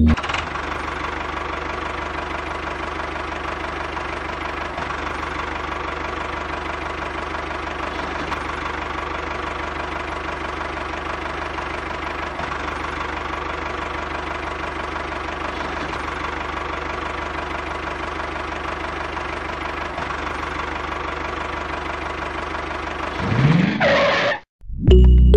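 A small motor running steadily, with a rising sweep near the end before it cuts off.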